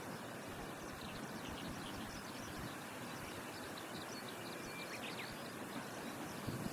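Outdoor ambience: a steady background rush with many small birds chirping high-pitched throughout, and a short thin whistle with a few sweeping calls about five seconds in.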